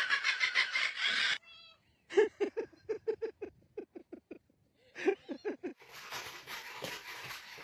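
A loud, rough noise for about the first second, then a cat giving a fast run of short, clipped meow-like calls, about four a second, and a second shorter run a moment later.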